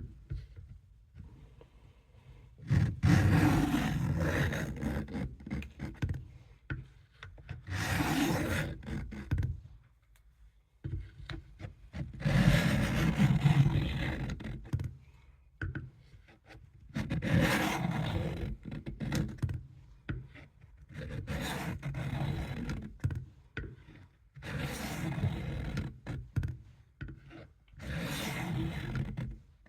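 Blade of a vintage Camillus Trailblazer knife scraped back and forth on a coarse sharpening stone, in about seven bouts of strokes a couple of seconds long with short pauses between. This is the coarse-stone stage, working a dull edge that still needs more grinding.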